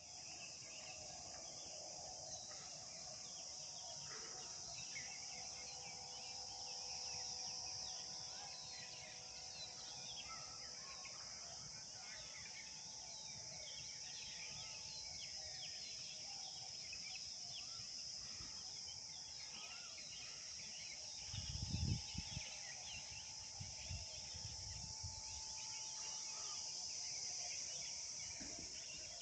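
A steady, high-pitched insect chorus with many short bird chirps over it. A few low rumbles come about three-quarters of the way through.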